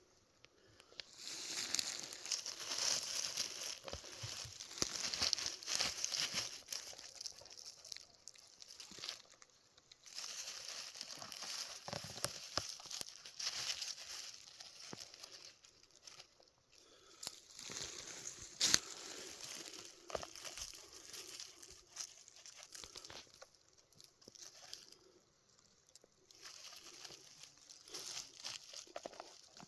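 Rustling and crackling of forest-floor litter being disturbed, in irregular bouts with short quieter gaps, and one sharp snap a little past halfway.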